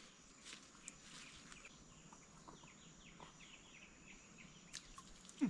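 Faint outdoor background: a bird calling a quick run of short, falling high notes about halfway through, with a few faint ticks.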